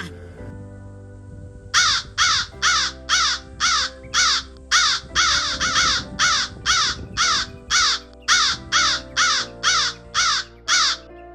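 An animal's short, harsh calls repeated rapidly, about two to three a second for some nine seconds, starting about two seconds in, over steady background music.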